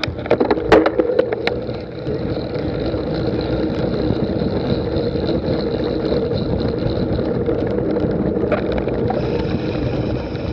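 Cyclocross bike being ridden over the race course: steady wind and rolling noise on the bike's camera. A quick cluster of sharp clicks and rattles comes in the first second and a half, and one more about eight and a half seconds in.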